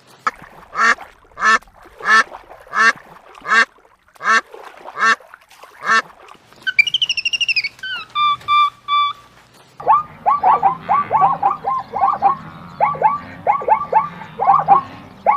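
Animal calls in sequence. First comes a run of about eight evenly spaced calls, then a short whistled call that rises and falls, followed by a few clipped tones. From about two-thirds of the way in there is a long run of quick, repeated chirping calls.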